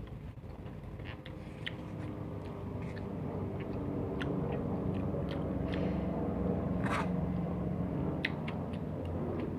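Close-up mouth sounds of eating bopis with rice: chewing with scattered wet clicks and a louder smack about seven seconds in, over a steady low hum.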